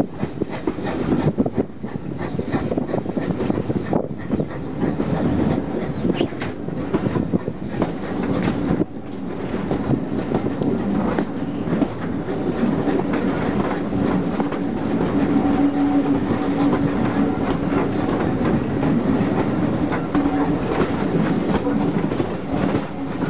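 Steam-hauled train running, its wheels clicking and clattering over the rail joints, with a steady hum joining from about halfway.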